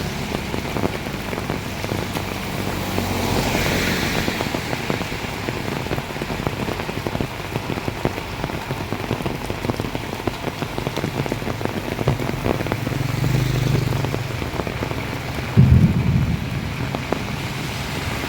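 Heavy rain pouring steadily, dense with fine drop patter. A low rumble builds about twelve seconds in, and a short, loud, low thump comes about three seconds before the end.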